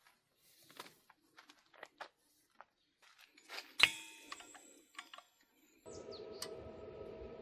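Scattered light metallic clicks and handling noises, then a sharp metal clank with a short ring about four seconds in. Near the end a machine starts up and runs steadily with a hum.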